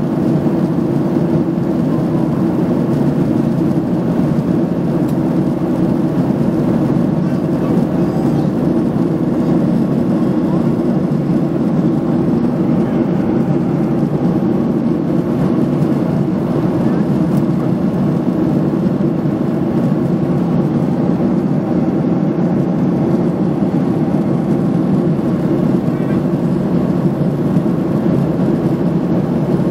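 Steady jet airliner cabin noise from the engines and rushing air, heard from inside the cabin as an even low drone.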